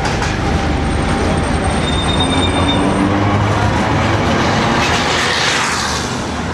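Tram running on its rails with a steady rumble, and a thin high wheel squeal from about one to three seconds in.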